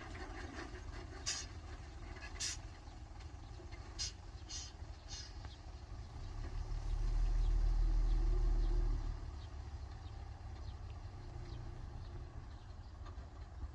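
Heavy diesel earthmoving machinery running with a steady low rumble. A few sharp knocks come in the first five seconds, and midway the engine's low rumble swells louder for a couple of seconds before easing back.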